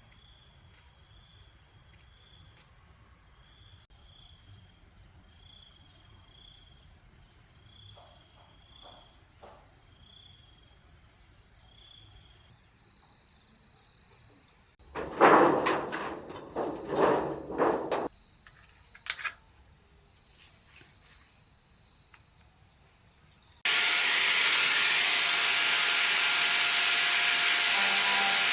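Insects trill steadily in several high, thin, overlapping tones, one of them pulsing. About halfway through come a few seconds of loud, rough scraping noises. A few seconds before the end, a loud, steady machine noise starts abruptly and runs on evenly.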